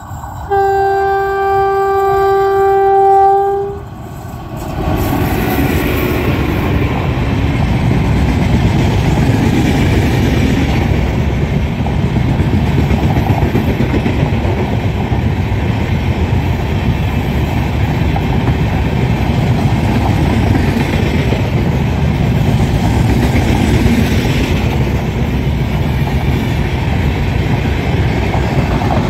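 Indian Railways locomotive horn sounding one long steady blast, then an express train running past with a steady rumble of coaches and wheels on the track.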